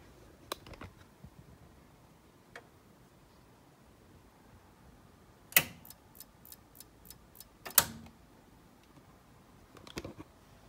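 Scattered sharp clicks and taps of small hard objects. One loud click comes about five and a half seconds in, followed by a quick run of about seven light ticks and another loud click about two seconds after the first.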